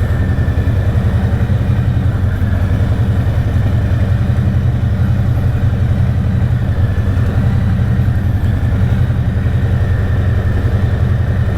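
Harley-Davidson Street Bob V-twin running steadily through a catless Two Brothers 2-into-1 exhaust, a loud, deep, rapid exhaust pulse with no change in pace.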